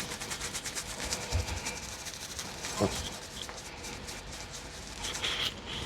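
Toothbrush scrubbing a wet spaniel's fur around the ears in quick, even strokes, fading after about two and a half seconds, with a soft thump and a sharp knock mixed in.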